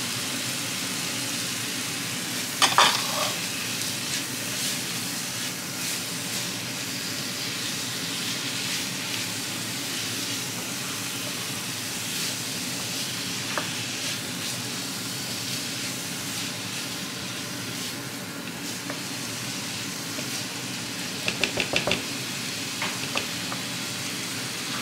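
Diced chicken breast and grated carrot sizzling steadily in oil in a frying pan while being stirred with a spoon. There are short knocks about three seconds in and a quick run of clicks near the end.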